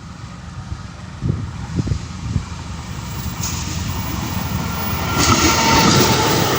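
Passenger train hauled by a KAI CC206 diesel-electric locomotive running past: a low rumble with a few knocks from the wheels, then a rush of rolling noise that builds and is loudest in the last second or so.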